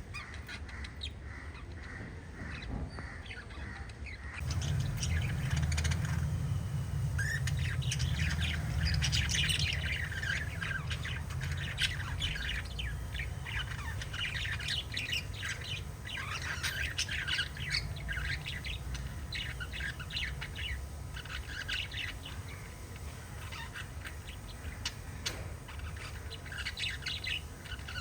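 A small group of pet budgerigars chirping and chattering, with dense, rapid squawks and warbles that grow busier after the first few seconds. A steady low rumble starts about four seconds in.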